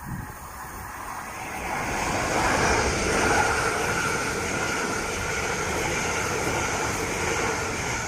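Two coupled Class 387 electric multiple units passing through the station: a rushing sound of wheels on rail that builds over the first two or three seconds and then holds steady, with a faint steady hum underneath.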